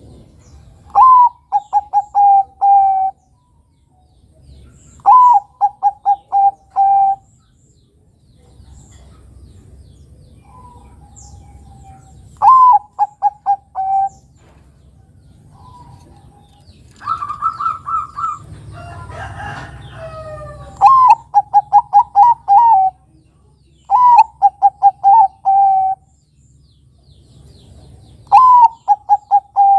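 Zebra dove (perkutut) of the Bangkok contest strain singing its cooing song over and over: each phrase of about two seconds opens with a higher note and falls into a quick run of short, clipped coos. It repeats about every three to eight seconds, with a longer held note and some rustling around the middle.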